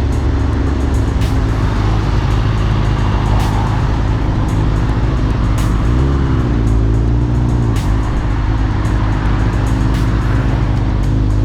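A vehicle engine running with a steady low drone, its pitch wavering briefly in the middle, with music mixed in.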